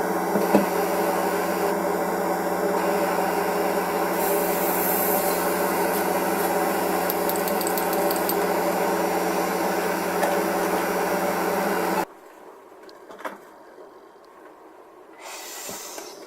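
A small electric motor hums steadily, then cuts off abruptly about twelve seconds in. Faint scraping and small clicks of hobby work on a plastic model follow.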